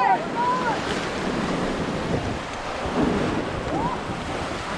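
Ganges river water rushing and splashing steadily around a raft being paddled forward, with wind buffeting the microphone.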